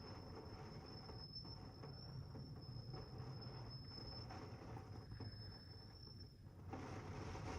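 Faint steady rain, with a thin, continuous high-pitched tone over it. The rain grows louder about seven seconds in.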